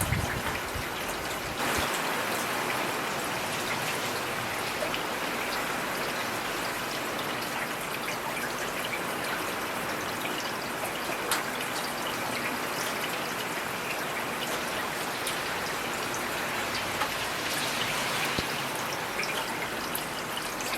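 Heavy rain falling steadily, an even hiss of drops with scattered individual drop ticks. A brief low thud at the very start.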